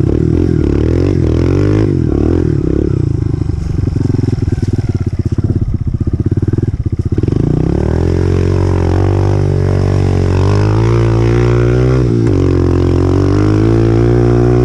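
2018 Honda CRF125F's single-cylinder four-stroke engine, running at low revs with a choppy beat for about the first half, then revving up and held higher, with a brief dip in revs about twelve seconds in and the revs dropping away at the very end.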